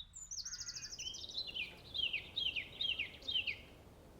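A songbird singing: a fast high trill, then about five short down-slurred notes, roughly two a second.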